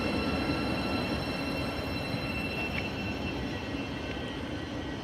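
Thameslink Class 700 electric train at the platform: a steady rumble with a thin high electrical whine that fades out after about two seconds, the whole sound slowly dying away.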